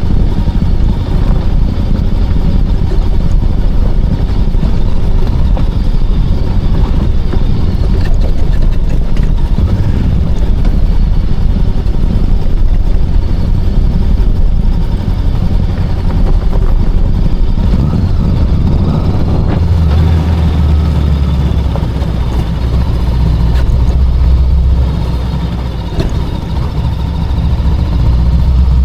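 VOGE 525DSX motorcycle's parallel-twin engine running on the road, under a loud, gusting rumble of wind on the microphone. The sound eases briefly about three quarters of the way through.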